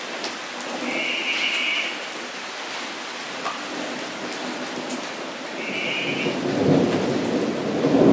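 Steady rain pattering onto a wet paved floor and the shallow water pooled on it, with scattered individual drop hits. A short high buzzing trill sounds twice, about a second in and near six seconds, and a low rumble swells over the last second or two.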